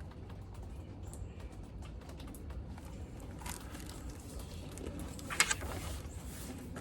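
Quiet room tone with a low steady hum, broken by a few faint short rustles and clicks, the clearest about two thirds of the way through.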